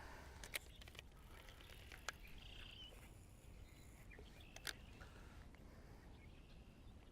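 Faint outdoor quiet with a few distant bird chirps and three sharp clicks.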